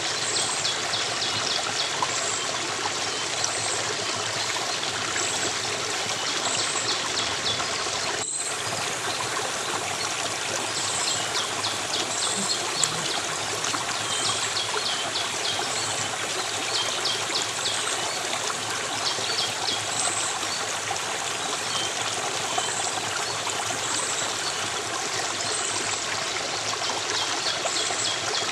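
Stream of running water flowing steadily, with small birds chirping in quick repeated high trills over it.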